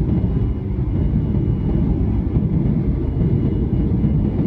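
Boeing 737-800 cabin noise: a steady, dense low rumble with a faint, thin high tone above it.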